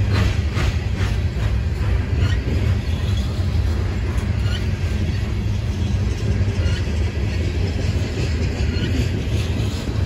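CSX freight train of open-top hopper cars rolling past: a steady low rumble of steel wheels on the rails, with a quick run of wheel clicks over a rail joint in the first second and fainter clicks later.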